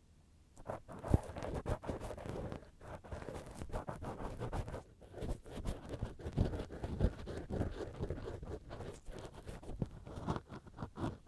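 Cotton swab rubbing and scratching inside a binaural microphone's ear: a dense, irregular stream of close scraping and brushing with small clicks. It starts a moment in, after a brief silence.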